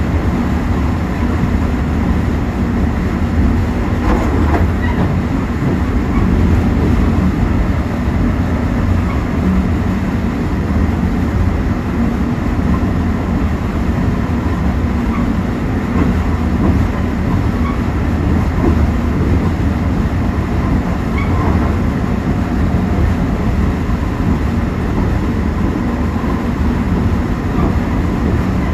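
Mugunghwa-ho passenger train running at speed, a steady rumble of wheels on rails heard from the rear car.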